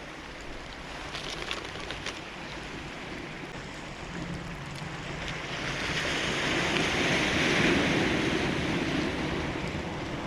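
Sea waves breaking on a cobble beach, the surge building about six seconds in and easing off near the end.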